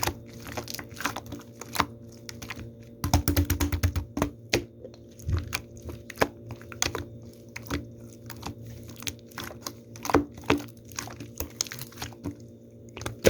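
Slime being squeezed and pressed by hand, giving off irregular sticky clicks and pops, with a quick run of crackling clicks about three seconds in.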